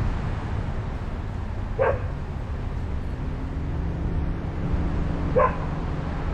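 A dog barking twice, two short barks about three and a half seconds apart, over the steady low rumble of a car driving.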